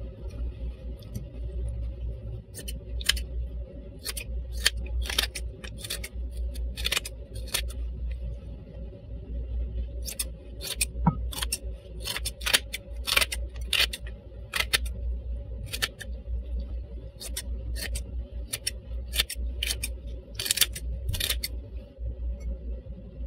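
A series of sharp, irregular clicks, about one or two a second, over a steady low hum.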